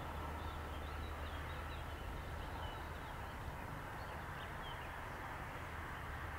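Small birds chirping faintly in short, scattered calls over a steady low background rumble.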